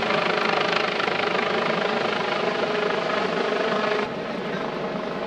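Helicopter's steady rotor and engine noise, dropping suddenly to a quieter level about four seconds in.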